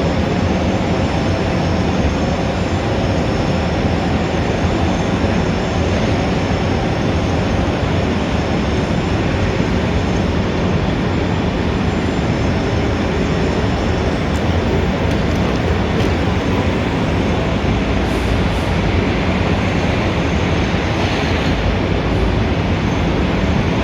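Dense city street traffic: a steady, even roar of engines and tyres without a break.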